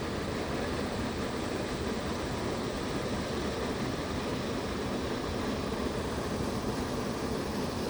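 Steady rushing of water falling at a partly iced-over creek waterfall, an even hiss-like roar that holds constant.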